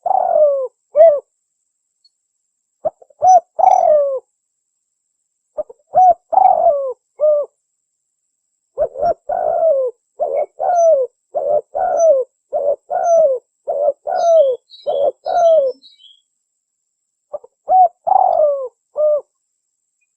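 Spotted dove cooing in repeated phrases with short gaps between them, then a fast run of coos in the middle. A small bird chirps faintly near the end of that run.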